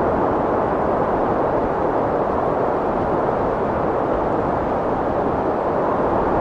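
Strong wind blowing, a steady rushing noise with no gusts or breaks.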